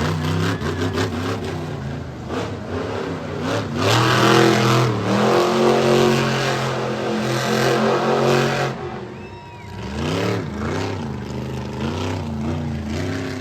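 Monster truck engine revving hard. It holds high revs for about five seconds in the middle, then drops off sharply and is blipped up and down several more times.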